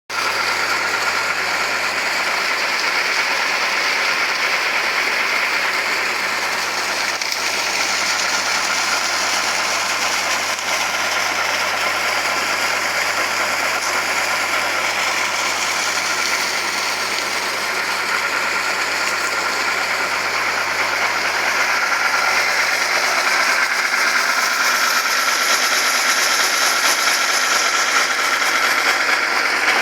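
Tractor engine running steadily while driving an alternator, with a thin steady whine through it; it grows slightly louder about two-thirds of the way through.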